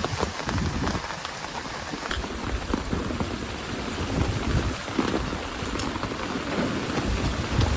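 Steady heavy rain, with many separate drop hits landing close by over an unsteady low rumble.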